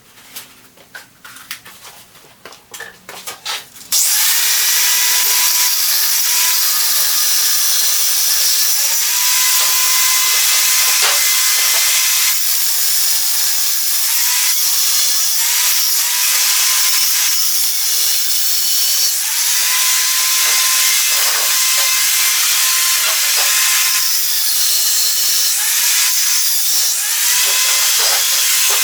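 A power tool starts about four seconds in and runs loudly with a steady hiss, its whine dipping and recovering several times as it is loaded against the work, typical of grinding or cutting metal. Before it, faint clicks of handling.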